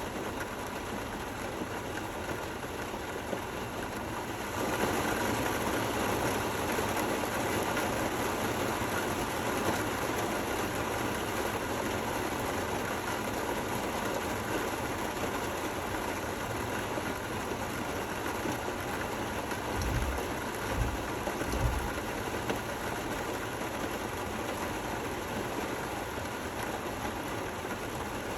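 Steady rain falling, an even hiss and patter that grows heavier about four and a half seconds in. Three brief low thumps come about two-thirds of the way through.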